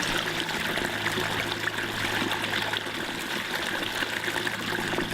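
A canyon stream running steadily, water trickling and rushing, with a steady low hum underneath.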